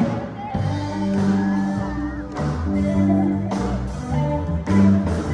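Live sacred steel gospel band playing: a steel guitar's held and gliding notes over bass and regular drum hits.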